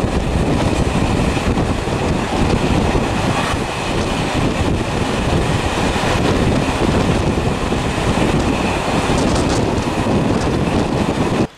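Loud, steady running noise of a moving vehicle, with a faint steady whine above it, cutting off suddenly near the end.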